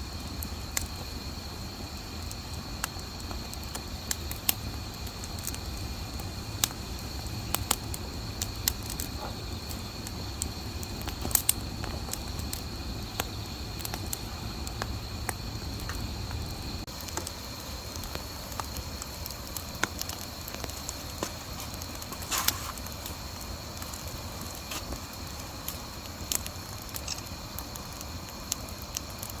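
Wood bonfire crackling, with sharp pops at irregular intervals. Under it, a steady high chirring of grass insects singing in the autumn night.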